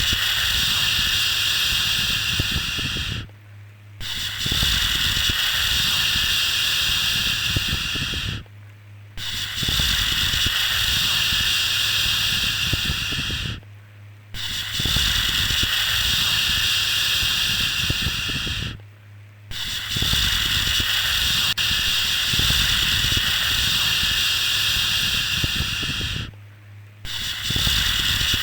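Repeated long 'shhh' shushing sound, a steady hiss that pauses briefly roughly every five seconds before starting again, used to soothe a baby to sleep. A low steady hum runs underneath.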